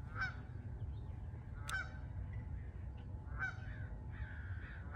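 A bird calling over and over, with three loud calls about a second and a half apart and fainter calls between them, over a steady low rumble.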